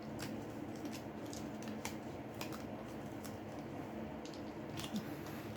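A few faint, scattered clicks and ticks of pry tools working under a smartphone's glued-down screen, over a steady low hum.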